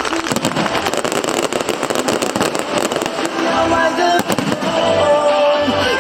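Aerial fireworks bursting and crackling in rapid succession, with voices underneath and music coming in during the second half.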